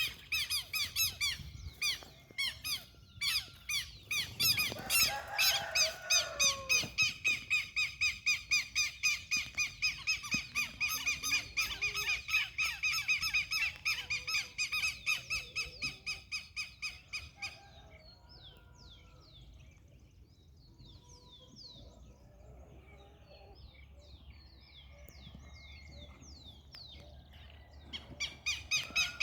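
A bird calling loudly and rapidly in a long run of high, repeated calls, about three a second, with one lower falling call early on. After about 18 s the calls give way to softer, short falling chirps, and the rapid calling starts again near the end.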